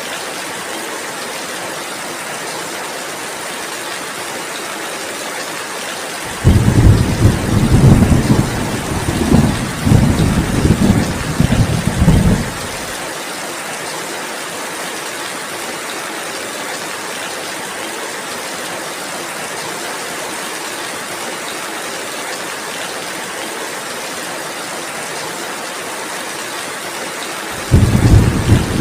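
Steady rain falling, an even hiss. About six seconds in, a loud, low rolling rumble comes in suddenly for about six seconds and cuts off abruptly, and another starts just before the end.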